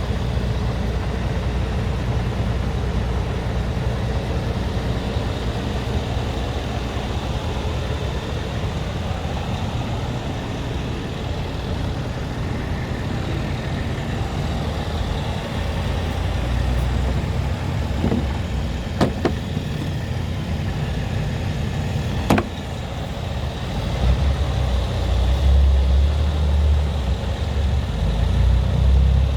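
Scania R tractor unit's diesel engine running steadily at idle. Sharp clicks come a little past halfway and again a few seconds later, and the low rumble grows louder for the last five seconds.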